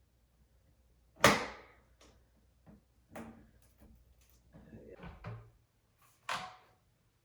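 Metal paint can lid being scored and pried open: two sharp knocks, one about a second in and one near the end, with smaller clicks and scrapes in between. The lid is stuck shut by dried paint around the rim.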